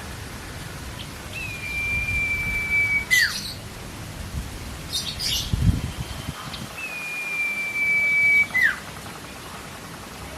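Common iora (cipoh) giving two long whistles, each held level for about a second and a half and ending in a quick downward drop. There are short harsh rasping notes between them.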